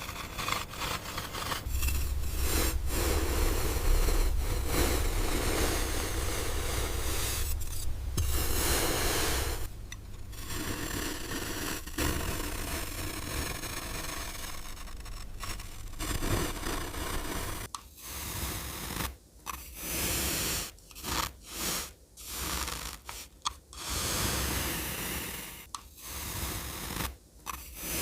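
Plastic toy construction vehicles and their scoops or blades being pushed through sand, a scraping, crunching sound. It runs steadily for the first half, then breaks into short strokes with brief gaps.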